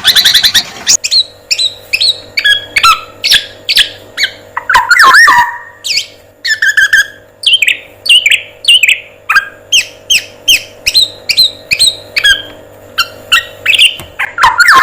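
Songbird song: a quick rattling trill, then a rapid run of short squeaky chirps and down-slurred whistles, several a second, over a faint steady hum. It comes from a bird-training recording that mixes male black-naped oriole song with other birds' calls.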